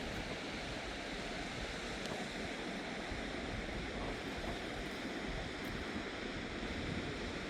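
Steady rushing noise of a heavy rainstorm with wind, and wind rumbling unevenly on the microphone.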